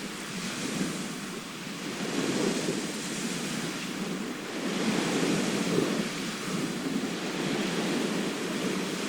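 Sea waves washing onto a shore, the surf swelling and easing every few seconds, with some wind on the microphone.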